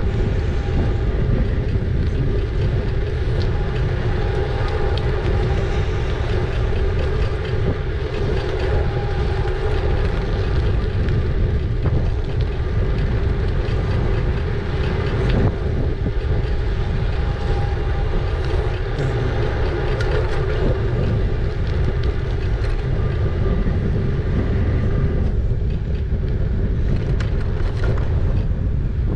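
Riding noise from an e-bike on the move: a steady rumble of wind on the microphone and tyres on the road, with a faint steady hum running underneath.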